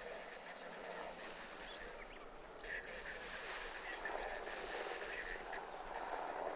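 Several short, high bird calls over a steady hiss of calm sea and light wind.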